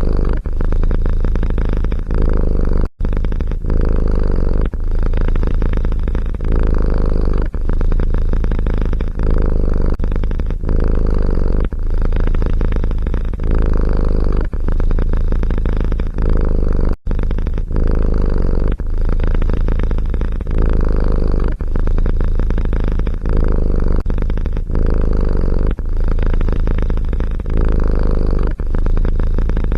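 Domestic cat purring loudly close to the microphone, a low continuous rumble that swells and dips with each breath about every second and a half. It drops out sharply for an instant about 3 seconds in and again about 17 seconds in.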